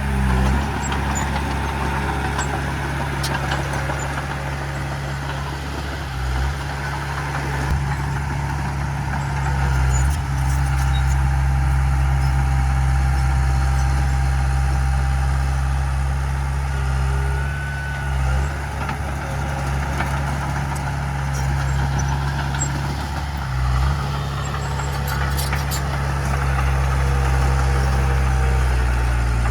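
Heavy diesel earthmoving machinery running steadily, its low engine drone shifting briefly every few seconds as the load changes.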